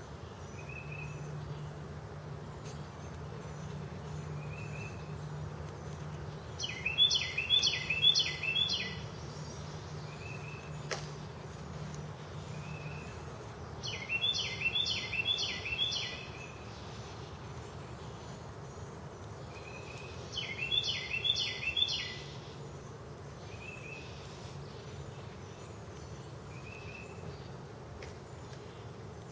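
A songbird singing a phrase of five or six quick repeated notes, about two seconds long, four times at roughly six-second intervals, with short single call notes in between. A faint low steady hum runs underneath, fading after about the middle.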